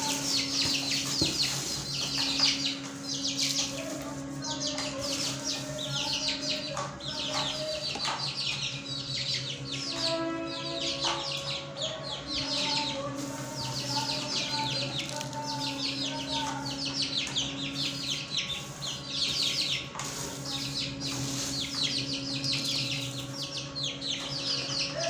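Many small cage birds chirping in rapid, high-pitched bursts that go on without pause, over a steady low hum.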